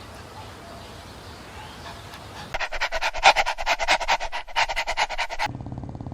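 A puppy panting fast, a quick even series of short breaths for about three seconds that starts and stops abruptly, over a faint background hum.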